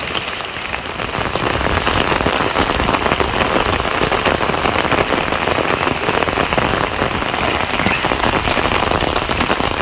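Steady rain falling, a dense hiss of many drops striking surfaces, growing a little louder after about a second and a half.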